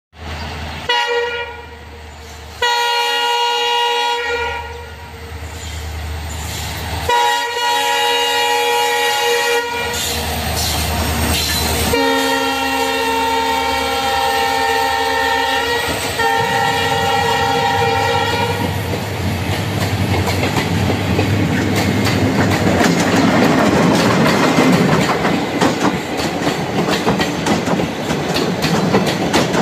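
A train horn sounds several long, steady chord blasts with short gaps between them as the train approaches. Then the passenger train passes close by, its wheels clattering over the rails in a loud, swelling rumble.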